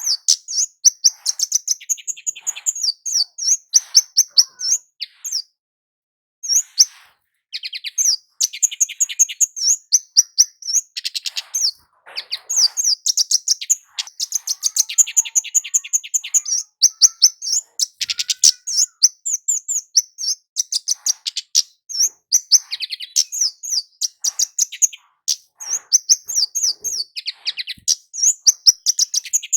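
Kemade jawa (a flowerpecker) singing loud, rapid series of short, high, sharp chirps and quick trills, broken by brief pauses.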